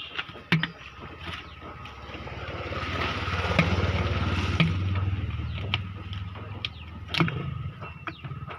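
An engine running with a low rumble that swells louder for a few seconds in the middle and then eases back, with scattered clicks and knocks.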